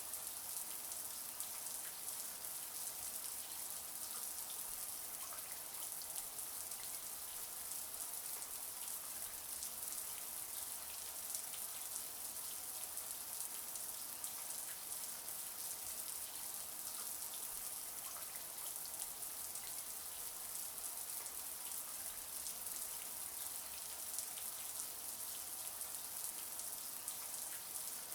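Running shower water spraying and splashing steadily: an even hiss, brightest in the high end, with fine pattering of drops.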